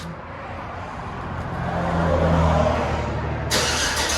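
Exhaust of a 2008 Chevy Tahoe's 5.3-litre V8, with the muffler deleted and replaced by a 3-inch pipe but the resonator kept, running with a low, steady rumble. It grows louder over the first two seconds, and a hissier edge joins near the end.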